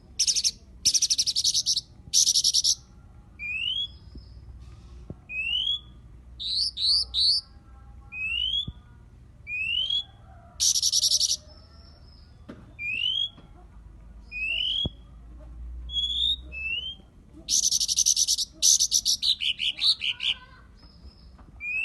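A Cyornis blue flycatcher singing: short clear whistles rising in pitch, repeated every second or two, broken several times by bursts of fast, high chattering notes.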